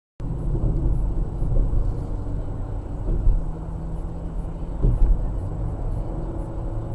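Motor vehicle engine and road noise, a steady low rumble that starts abruptly after a moment of silence.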